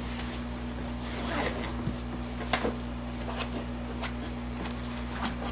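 Small twin-tub washing machine running at the start of its first rinse: a steady hum with a few scattered light clicks and knocks.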